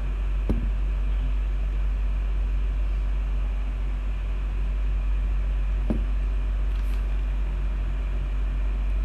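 Steady low hum over an even background noise, with two brief taps, one about half a second in and one near six seconds.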